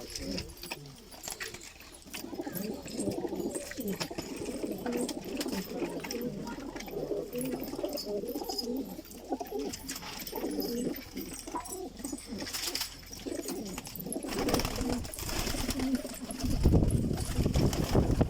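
A flock of domestic pigeons cooing in their coop: many low coos overlapping in a continuous murmur. Near the end, louder bursts of rushing noise cover the coos.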